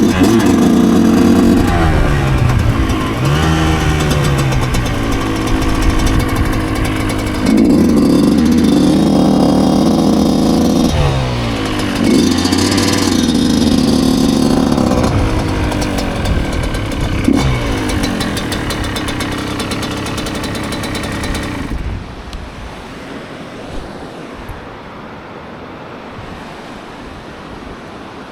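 2009 Yamaha YZ125's 125 cc two-stroke single-cylinder engine under riding load, its pitch rising and falling repeatedly as the throttle is worked. It drops to a much quieter running sound for the last few seconds.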